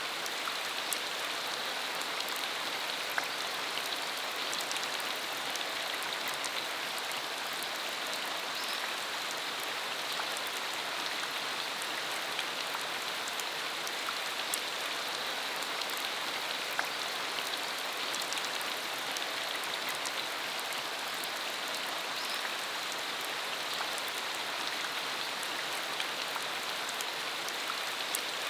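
Steady rain falling on a dirt country road, an even hiss with many small drop ticks scattered through it.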